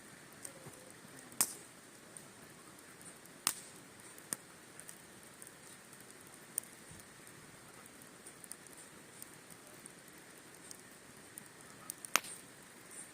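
Campfire crackling: a faint steady hiss with sharp, irregular pops of burning wood, three of them louder than the rest, about one and a half, three and a half and twelve seconds in.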